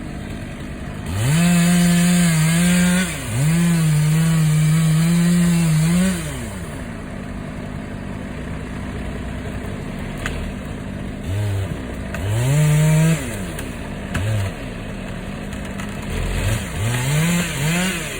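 Two-stroke chainsaw revved to full throttle and held there for a few seconds, twice in a row. After that it drops back to idle, then gets several shorter throttle blips, each rising and falling in pitch.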